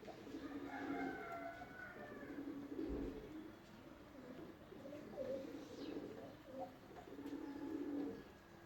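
Birds calling: repeated low-pitched calls that come and go, with some fainter higher calls.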